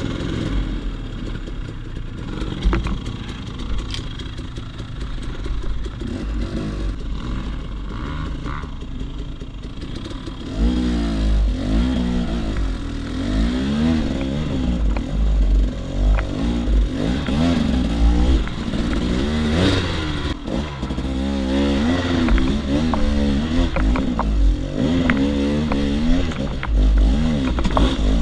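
KTM 300 XC-W two-stroke enduro motorcycle engine under way, its pitch rising and falling again and again as the throttle is opened and closed. The revving turns louder and busier about ten seconds in.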